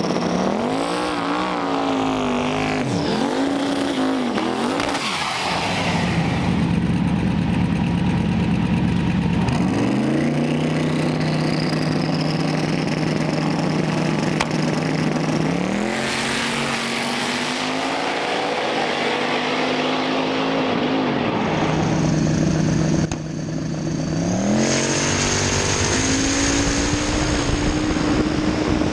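Twin-turbo drag car engine revving: its pitch wavers and dips, then climbs and is held steady for several seconds at a time, several times over.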